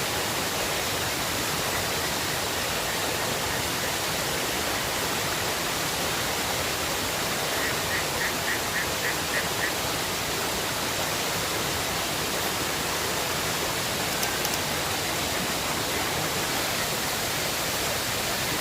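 Steady rushing of river water. About halfway through, a short run of about nine quick high chirps rides over it.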